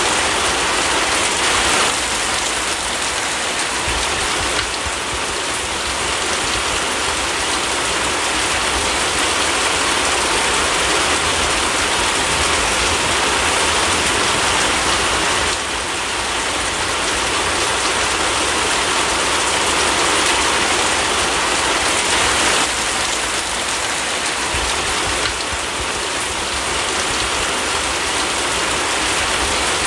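Steady rain falling, a dense, even patter of drops that shifts slightly in level a few times.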